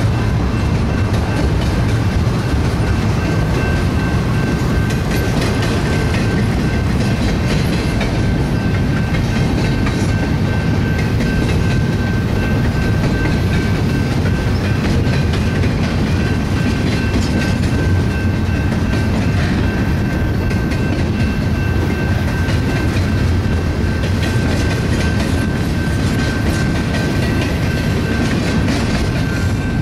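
Cars of a BNSF double-stack container train rolling past: a steady rumble and clatter of wheels over the rails, with a faint high ring held throughout.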